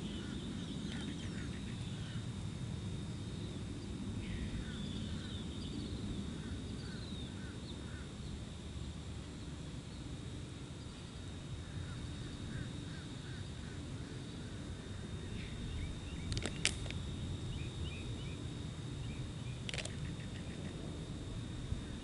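Small birds chirping and calling, in short bursts of chirps and gliding notes, over a steady low rumble. Near the end come two sharp clicks about three seconds apart.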